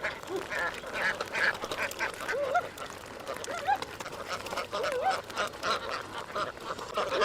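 A flock of domestic ducks quacking, many short calls overlapping without pause.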